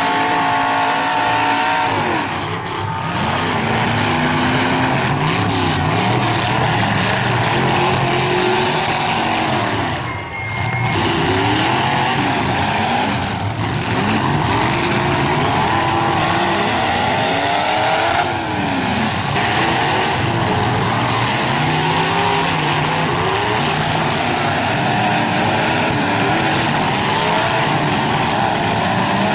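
Engines of several demolition-derby cars revving hard, their pitch rising and falling again and again as they accelerate and back up on dirt, with a held pitched tone in the first two seconds.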